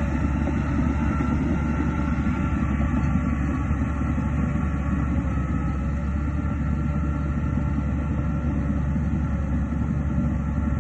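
Diesel engine of heavy earthmoving machinery running steadily, a deep, even rumble at constant loudness.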